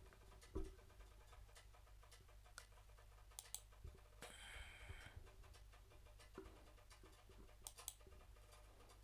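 Faint, scattered clicks of a computer mouse and keyboard over a steady low hum, with a brief soft hiss about four seconds in.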